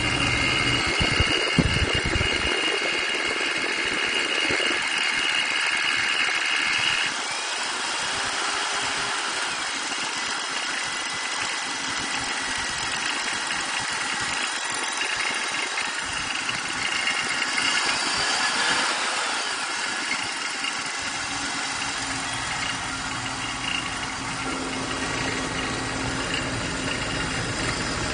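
A BMW car running with a steady mechanical noise: a high whine for about the first seven seconds, then fainter, with a low rumble at the start and again in the last quarter. The sound is one the owner finds strange and does not name.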